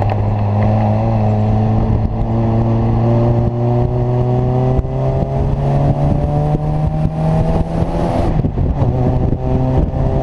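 Open-cockpit sports car's engine heard from on board, pulling hard with its pitch slowly rising as the car accelerates, with a brief break in the note about eight seconds in.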